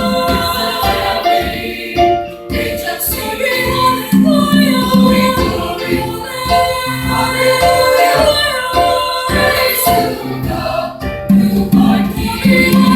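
School chorus singing a Christmas song, with music throughout.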